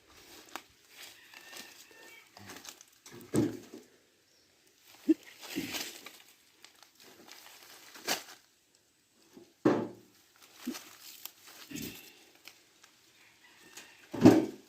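Dry firewood branches being handled and loaded into a wheelbarrow: a series of separate wooden knocks and clatters, a few seconds apart.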